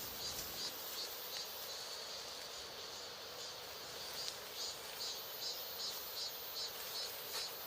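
Insects chirping in a steady, even rhythm of about three high-pitched pulses a second.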